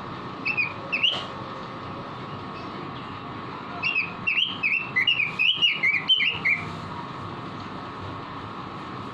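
Pekin robin (red-billed leiothrix) singing in short, chirped whistled notes: a couple near the start, then a quick run of about ten from about four seconds in to past six seconds, over a steady background hiss.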